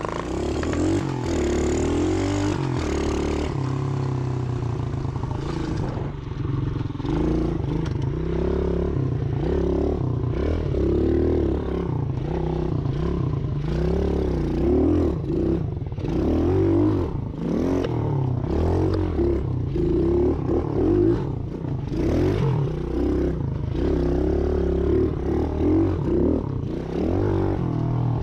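Small Chinese pit bike engine revving up and falling back over and over as it is ridden around a dirt track, with rattles and clatter mixed in.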